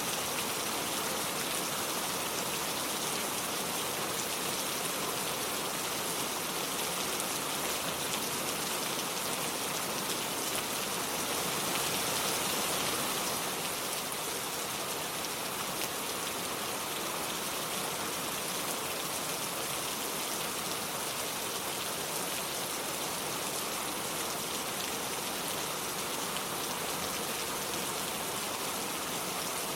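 Steady rain falling, a dense even patter of drops that swells a little about twelve seconds in.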